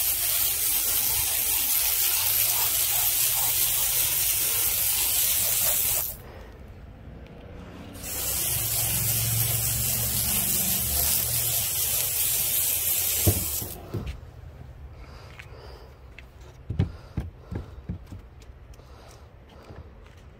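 A steady hissing jet, in two long blasts: about six seconds, a pause of two seconds, then about five and a half seconds more, cutting off suddenly. A few light knocks follow.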